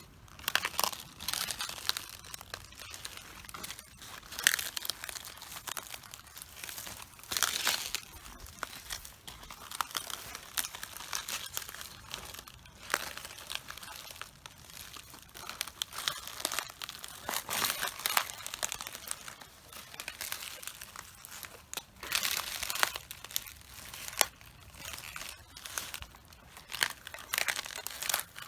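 Cabbage leaves crunching, crackling and tearing underfoot as someone walks on them, in uneven bursts about once a second.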